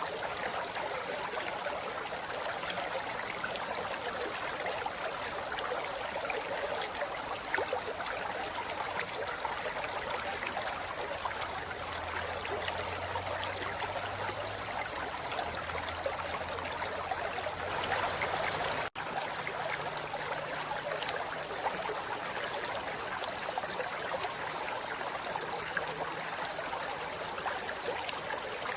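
River water flowing steadily over rocks: an even rushing and trickling that cuts out for an instant about two-thirds of the way through.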